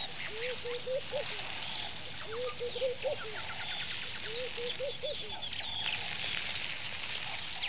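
Birds calling: many short high chirps and whistles, over a low call of a few rising notes repeated about every two seconds, three times.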